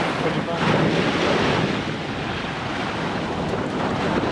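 Gulf Coast surf washing onto the beach, with wind buffeting the microphone; a little louder for the first second and a half, then steady.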